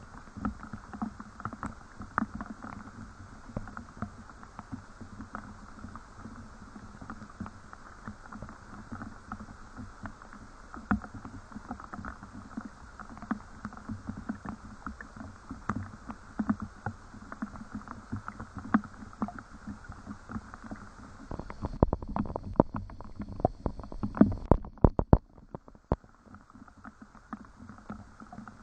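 Rain falling as a dense patter of separate drops. From about 22 seconds in comes a louder, heavier run of knocks and thuds for a few seconds, after which the patter is quieter.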